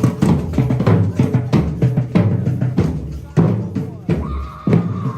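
Drums playing a steady, busy rhythm of bass and snare strokes, with one held higher note coming in about four seconds in and sagging slightly in pitch.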